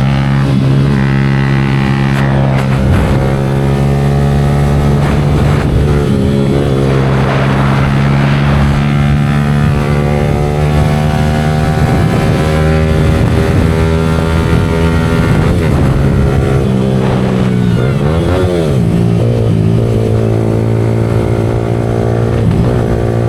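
Yamaha R15 V4M's single-cylinder engine running through an aftermarket Leo Vince exhaust, holding a steady note with a brief dip and rise in pitch near the end.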